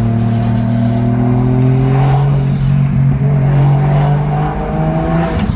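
Turbocharged 1JZ-GTE inline-six pulling under hard acceleration, heard from inside the car, its revs climbing steadily for about five seconds. Near the end there is a short rush of noise as the pull ends and the revs drop.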